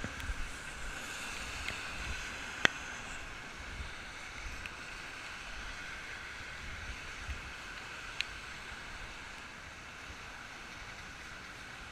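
Steady hiss of falling rain, with some wind rumble on the microphone at first and a few sharp clicks, the loudest one about three seconds in.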